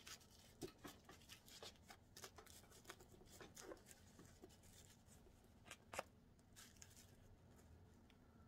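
Faint, scattered rustles and small clicks of hands handling and smoothing a lace wig frontal and its hair, with a sharper tick about six seconds in.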